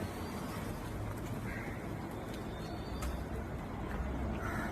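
Steady low rumble of vehicle and road noise, with a few faint clicks and no impact.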